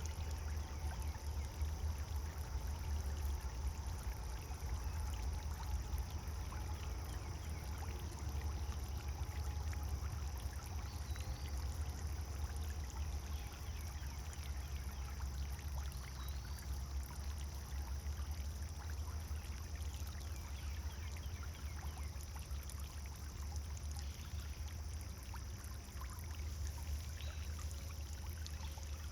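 Pond fountain splashing and pouring steadily into the water. Two faint, short chirps come a few seconds apart partway through.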